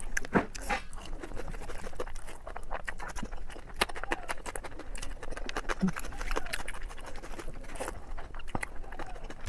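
Close-up eating sounds: many quick clicks and smacks of chewing and mouth noises, with a faint voice in the background.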